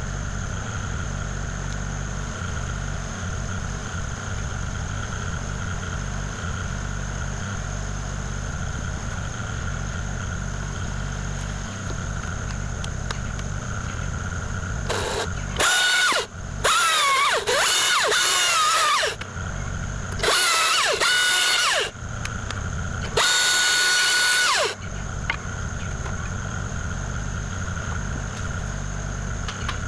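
Kubota KX040 compact excavator's diesel engine running steadily with a faint whine. About halfway through come several loud, high-pitched squeals that waver in pitch, each a second or two long.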